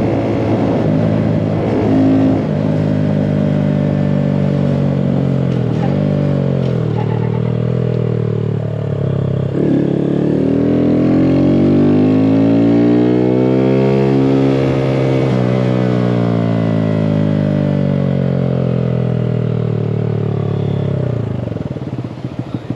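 Small motorcycle engine under way, its pitch rising and falling with the throttle, with one long climb and drop in the middle. Near the end it drops to a pulsing idle.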